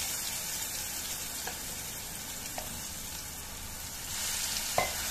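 Ground green chili and garlic paste sizzling in hot oil with cumin and mustard seeds in a kadai, a dense steady frying hiss that swells slightly near the end. A wooden spatula gives a few light knocks against the pan, the sharpest near the end.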